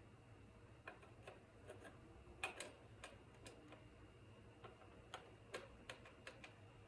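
Near silence with about a dozen faint, light clicks and taps, irregularly spaced, the loudest pair about two and a half seconds in.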